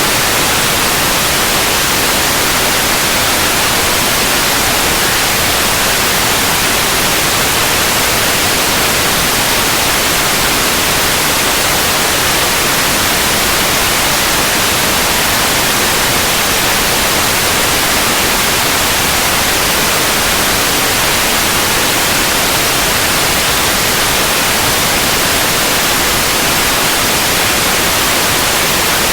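Steady white noise: an even, unchanging hiss across the whole range, with no other sounds.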